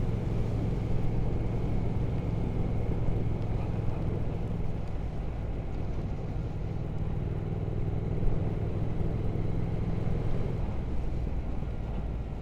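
Triumph Speed Twin 1200's parallel-twin engine running steadily on the move, under wind and road noise.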